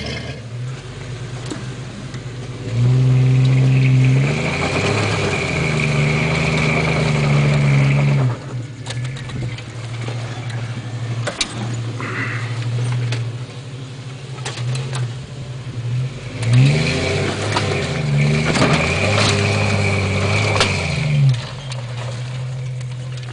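Off-road 4x4 engine revving hard under load in two long pushes, about three seconds in and again past the middle, its pitch swinging up and down, with a high whine along with each push. Scattered sharp knocks between the pushes.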